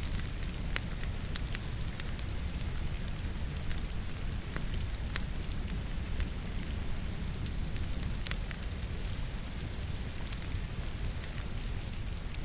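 Wood logs crackling in a fireplace, with irregular sharp pops, over the steady hiss of falling rain and a low rumble.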